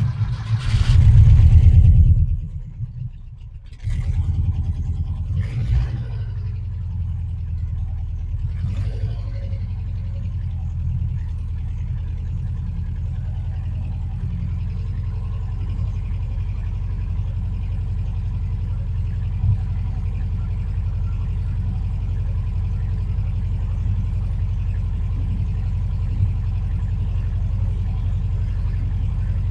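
Engine cold start: a couple of seconds of cranking, then it catches about four seconds in with a few short revs and settles into a steady fast idle, held high by design while the engine is cold.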